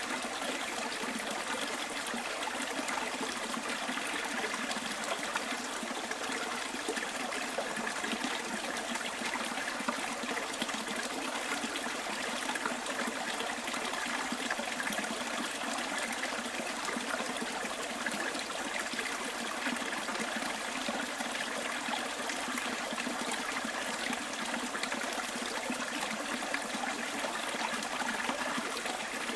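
Small stream trickling and burbling steadily over stones.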